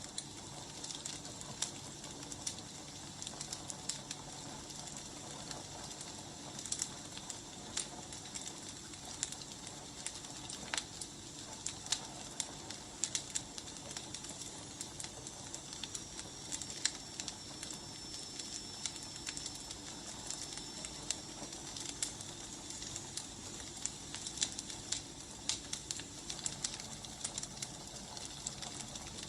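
Firewood burning, with a steady hiss and frequent irregular sharp crackles and pops. A faint high whistle sounds for several seconds in the middle.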